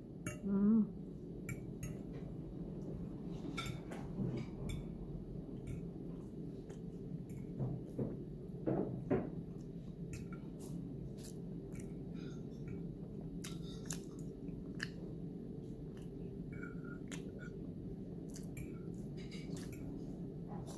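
A person chewing food, with scattered light clicks of a metal fork against a ceramic plate, over a steady low background hum.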